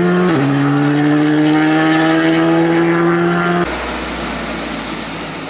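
Race car engine at full throttle, its pitch climbing through the revs, with a quick upshift about a third of a second in before it climbs again. The engine sound cuts off abruptly about three and a half seconds in, leaving a fainter rushing noise that fades away.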